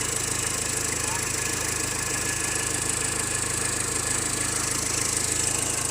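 Car engine idling steadily just after being started.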